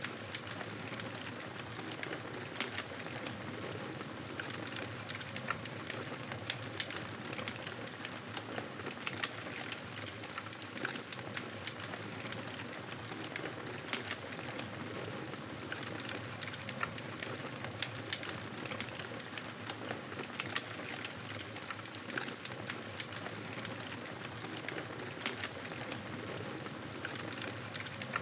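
Wood campfire crackling steadily, with many small irregular pops and snaps over a constant hiss.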